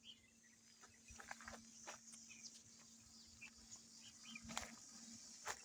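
Near silence: faint outdoor ambience with a faint steady hum and a few scattered soft clicks.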